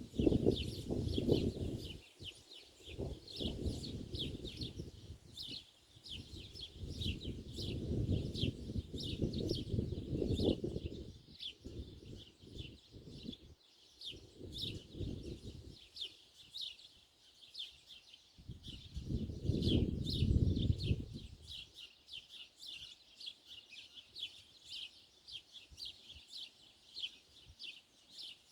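Small birds chirping in a quick, unbroken series of short high notes. Surges of low rumbling noise come and go every few seconds and are the loudest sound.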